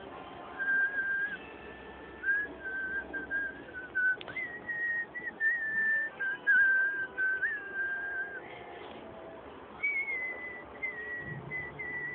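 A person whistling a slow tune, one clear note at a time, stepping up in pitch about four seconds in and again near ten seconds, with a single click just before the first step.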